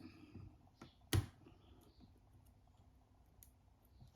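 Small clicks and taps of tools on a smartphone's internal parts during disassembly, with one sharp click about a second in.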